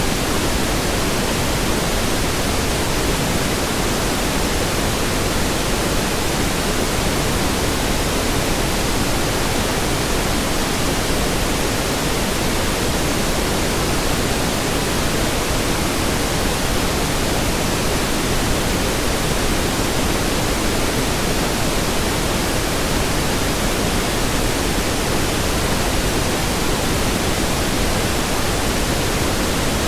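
Steady pink noise: an even hiss across the whole range, without change.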